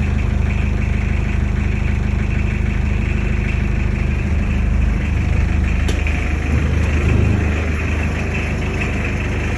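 Diesel engine idling steadily just after a full cold start, with the whole engine at about 51 °F. Its sound eases slightly about seven and a half seconds in.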